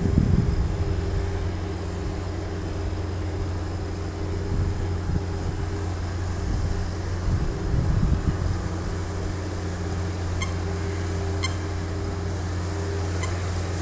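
A steady low engine drone with a hum and a higher overtone, rising briefly in loudness twice. From about ten seconds in come a few short, sharp ticks.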